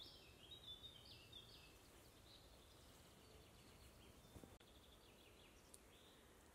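Faint woodland birdsong: short high chirps and trills, busiest in the first couple of seconds and again a little past the middle, over a low background hiss.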